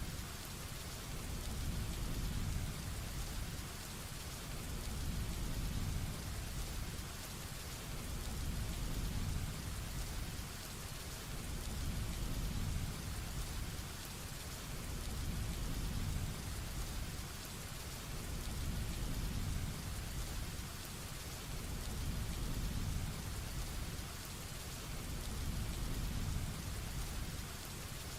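Heavy rain falling steadily, an even hiss, with a low rumble underneath that swells and fades every few seconds.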